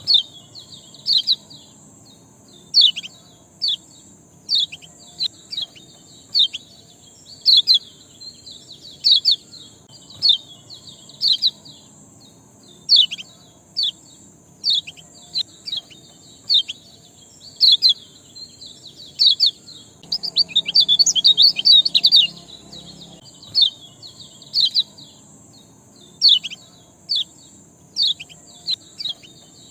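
A small bird giving short, sharp chirps that sweep downward, one or two a second, with a quick flurry of chirps about twenty seconds in, over a steady high hiss.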